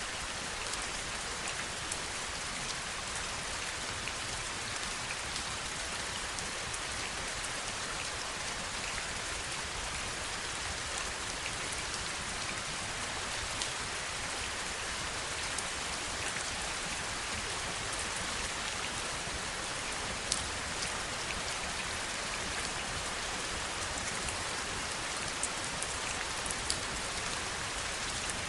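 Steady heavy rain, an even hiss with scattered individual drops ticking sharply, a few a little louder in the second half.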